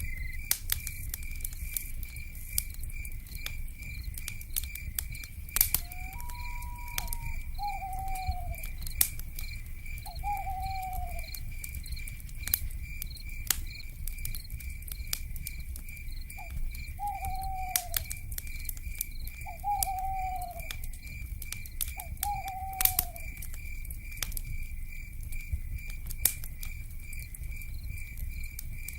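Crackling wood fire with scattered sharp pops, over a steady pulsing insect chorus, while an owl gives short falling hoots every few seconds, about six in all.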